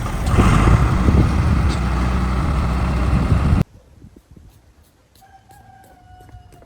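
A heavy truck's engine runs loudly, then cuts off abruptly a little past halfway. Near the end a rooster crows once, faintly, in one long held call.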